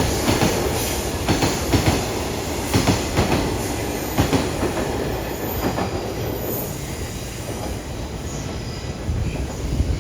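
Freight train of container flat wagons rolling past at speed, wheels clacking over rail joints with a steady rumble. The knocks come thick in the first few seconds and thin out later, with a faint high wheel squeal in the middle.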